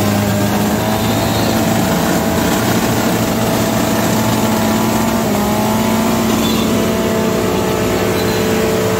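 Off-road 4x4's engine held at high revs, running steadily under load in deep mud.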